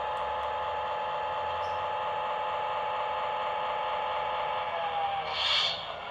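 Lionel O-gauge GP38 model diesel locomotive running, a steady whine and hum from its motors and Railsounds playback. About five seconds in the pitch drops, followed by a short burst of hiss.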